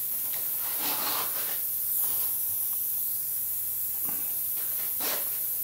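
Steady high hiss, with a few soft brushing sounds about a second in, around two seconds, and near the end.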